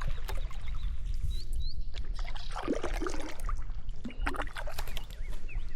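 Water sloshing and splashing around a kayak, mixed with sharp knocks and clicks. Two brief high chirps come a little over a second in.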